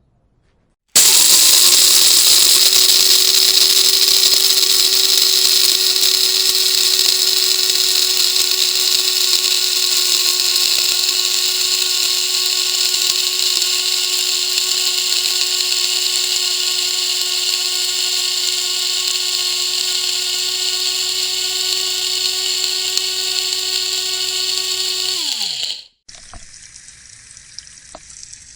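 An electric motor appliance starts suddenly and runs steadily and loudly, a strong hiss over a steady whine, then winds down with falling pitch near the end.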